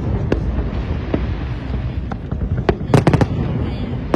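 Fireworks display going off: scattered sharp bangs over a continuous low rumble, with a quick cluster of about four cracks around three seconds in.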